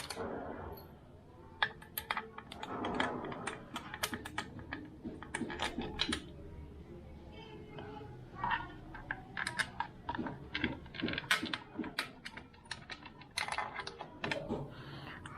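Irregular sharp clicks and clinks of metal bolts and hand tools as the scooter's CVT side cover bolts are fitted and tightened.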